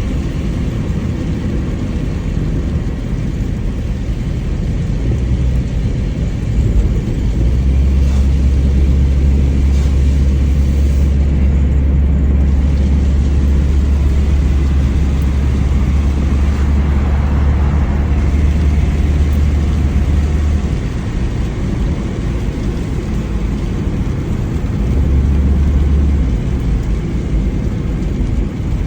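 Mitsubishi Lancer driving, engine and road noise heard from inside the cabin. A heavy low rumble comes in about seven seconds in, drops away after about twenty seconds, and returns briefly near the end.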